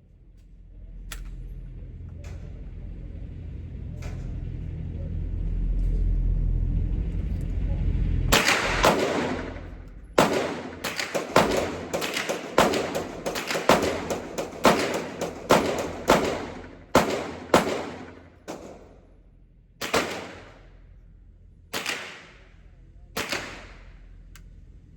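Glock 19 9 mm pistol firing at a range: a low rumble builds for several seconds with a few faint shots in it. Then comes a rapid string of loud shots, about two a second, ending with three more spaced a second or two apart.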